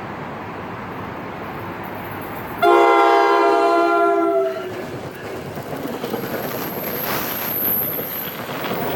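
A locomotive air horn sounds one chord blast of about two seconds, several tones together, whose pitch dips slightly as it ends. It is followed by the rumble and clatter of the passing train, with a brief high squeal near the end.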